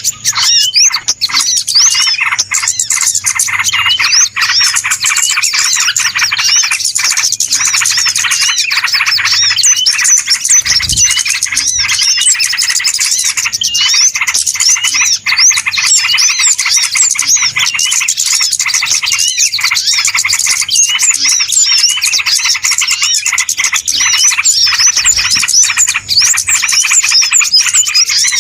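A dense chorus of many small birds chirping and twittering at once, loud and without a break: a bird-lure recording of a noisy flock, used to draw small birds in.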